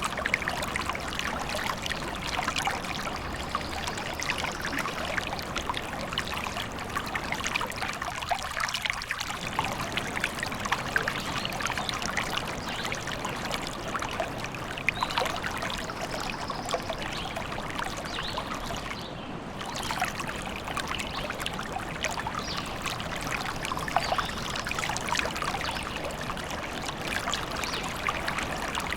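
Small forest stream babbling and trickling steadily over stones, a continuous splashing water sound.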